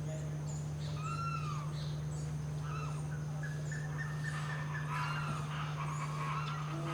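Wild birds calling: several arched, whistled call notes and scattered short chirps, over a steady low hum.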